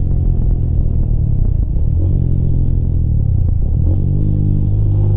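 Rusi Classic 250 motorcycle engine running under way with a low rumble; its pitch dips and then climbs again a little before the end.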